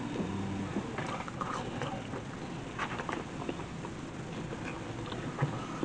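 A person chewing and eating food close to the microphone: soft, irregular mouth clicks and smacks.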